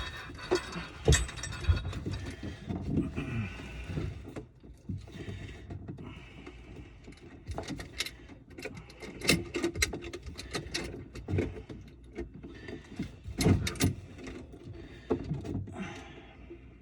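Irregular clicks, knocks and rattles of hand work with tools and parts. No motor is running.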